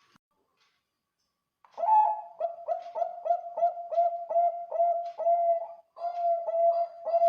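Zebra dove (Bangkok-bred perkutut) singing its cooing song. After a pause of almost two seconds comes a fast run of short coos, about three a second, then a brief break and a second phrase near the end.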